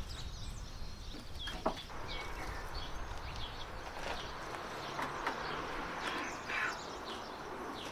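Small birds chirping: short, high chirps scattered throughout, over a steady low background rumble. A single sharp click about one and a half seconds in.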